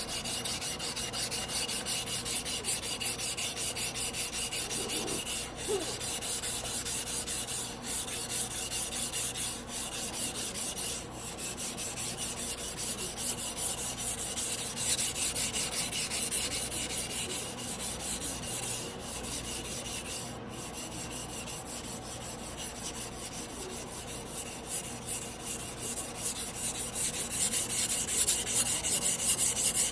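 Carbon-steel yanagiba blade rubbed back and forth by hand on a wet whetstone, a steady run of quick scraping strokes that grows louder near the end.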